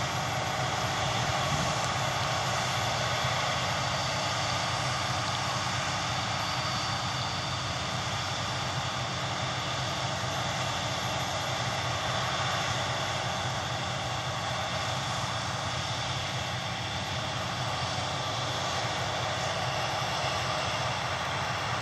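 Claas Lexion combine harvester running steadily at work, an even drone of engine and threshing machinery with several steady tones, that stops suddenly at the end.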